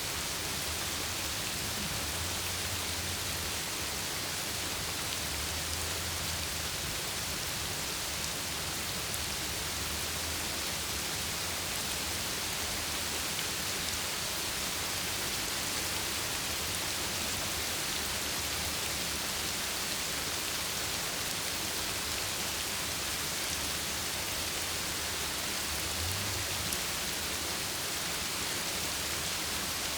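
Heavy, steady rain pounding down in an atmospheric-river downpour, a constant hiss of drops on surfaces, with a few faint low rumbles now and then.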